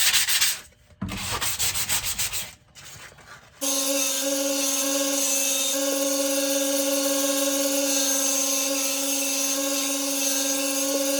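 Sanding with a fast, even pulse that breaks off twice. About three and a half seconds in, an electric belt sander's motor starts running with a steady hum, continuing to the end.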